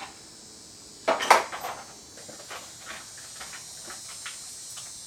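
Metal bolts clinking and clattering as they are handled: one loud rattle about a second in, then a string of lighter clicks and ticks.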